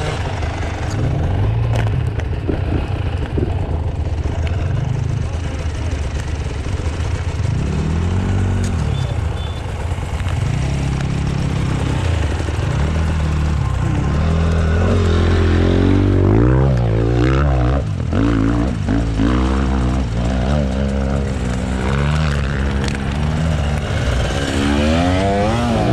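Dirt bike engine revving up and down over and over, its pitch rising and falling as the throttle is worked, busiest in the second half.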